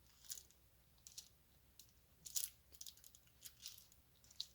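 Faint, scattered small clicks and ticks of a diamond-painting drill pen picking up resin drills and pressing them onto the canvas, coming unevenly every half second to a second.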